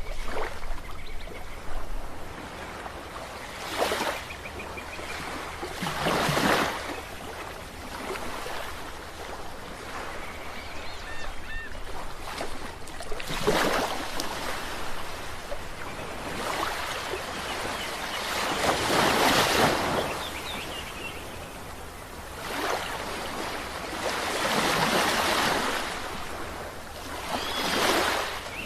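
Ocean waves breaking on a shore, each surge rising and falling in turn over a constant wash of surf, with a bigger wave every few seconds.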